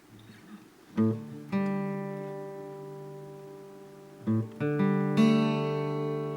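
Acoustic guitar music: slow strummed chords, each left to ring and fade, the first coming about a second in after a faint hiss.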